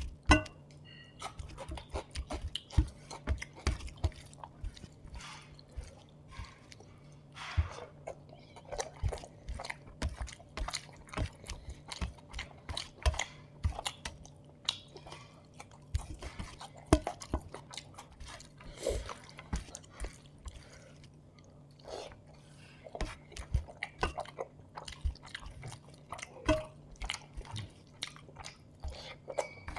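Close-miked chewing of chicken biriyani with curry gravy: many short, uneven mouth clicks and wet chewing noises, coming in quick irregular runs.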